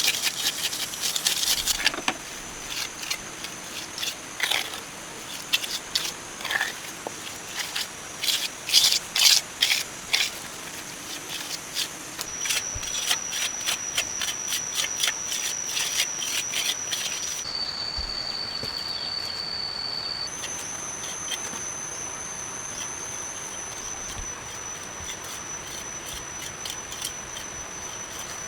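Rough scraping and rubbing strokes, dense at first and then scattered, stop about twelve seconds in. A steady high-pitched drone of rainforest insects takes over and shifts pitch twice.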